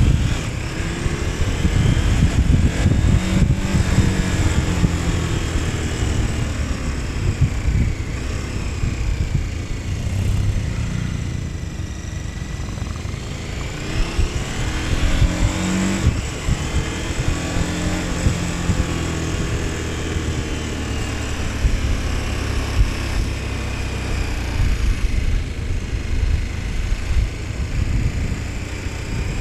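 KTM 1290 Super Adventure S V-twin engine under way, the revs rising and falling several times as the bike accelerates and eases off, over steady wind rush on the microphone.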